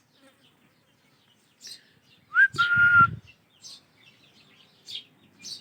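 Ringneck parakeet chicks giving scattered short, high chirps, with one loud whistled note about two and a half seconds in that rises briefly and is then held for under a second.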